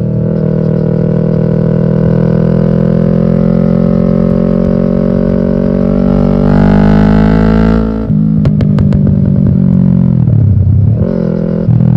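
Yamaha R6 inline-four engine running loud through an aftermarket exhaust, its pitch climbing steadily as the bike accelerates for about eight seconds. The pitch then drops sharply at a gear change, with a few sharp crackles, and comes back up near the end.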